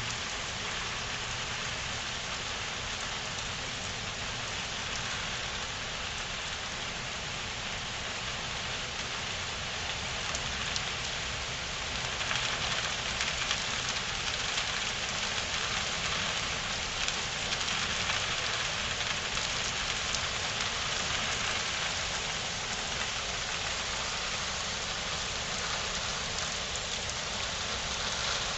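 Steady rain falling, growing a little heavier about twelve seconds in.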